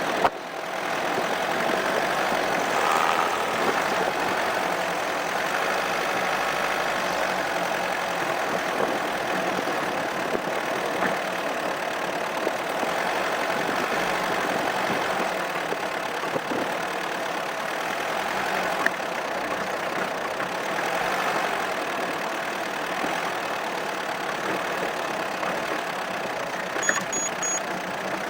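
Opel Monterey SUV's engine running, heard through a camera mounted on the car as a steady, even rush of noise, with a few faint clicks.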